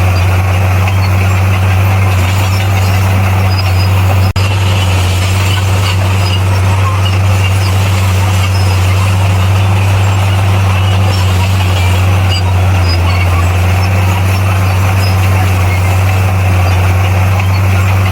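Bulldozer's diesel engine running steadily with a deep, even drone, cut by a momentary break about four seconds in.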